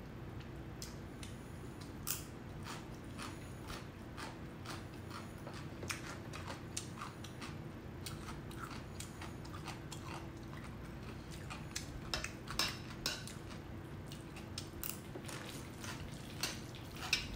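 A person chewing and biting food, close to the microphone, including crunchy bites of pickled radish, with many short sharp clicks and crunches scattered throughout.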